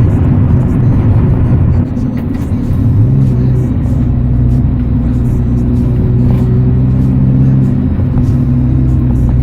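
Integra's engine with its muffler deleted, running through a straight pipe under way, heard from inside the cabin: a steady, deep exhaust drone that drops off briefly about two seconds in, then picks up again.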